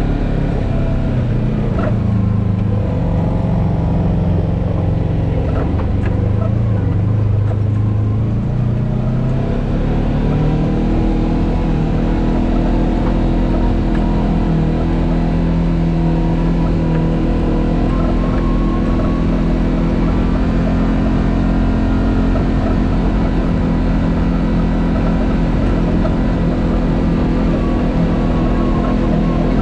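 Off-road vehicle engine running under load while climbing a rock obstacle. Its pitch rises about ten seconds in, then holds steady.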